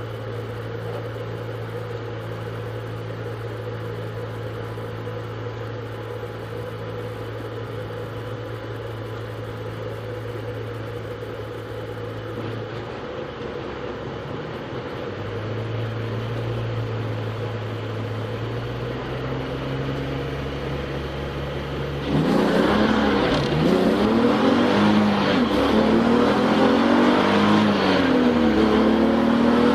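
Touring race car's engine heard from inside the cockpit: a steady low idle at first, then the note shifts and, about three-quarters of the way in, it suddenly gets much louder as the car accelerates hard, the engine pitch climbing and dropping again and again through the gears.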